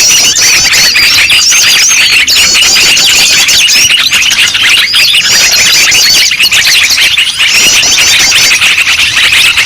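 Dense, loud chorus of many small birds chattering and calling at once, a constant run of repeated high chirps and squeaky notes. This is the excited, noisy commotion used as a lure to attract small birds.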